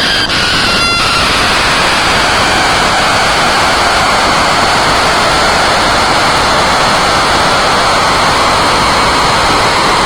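Loud steady rushing noise like static, with a fading falling tone that ends about a second in.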